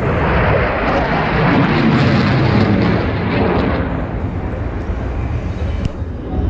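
Military fast jet's engines in a low display pass: a loud, rough jet noise that is strongest over the first few seconds and eases somewhat in the second half.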